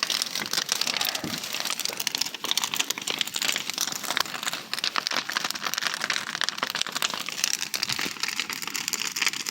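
Large bonfire burning, with a dense, irregular crackling and popping of burning wood.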